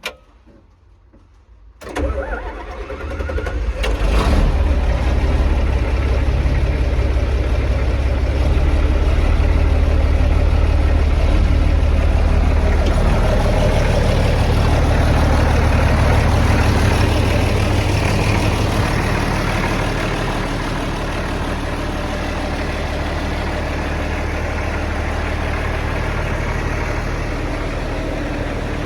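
John Deere 4430 tractor's six-cylinder turbocharged diesel cold-started: about two seconds in it cranks for roughly two seconds, catches and runs loudly, then settles to a slightly quieter idle about twenty seconds in.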